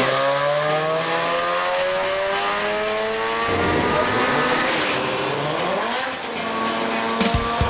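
Mazda RX-7's twin-rotor engine accelerating, its pitch climbing steadily, with a change about halfway through and a brief drop and climb again near the end, like gear changes.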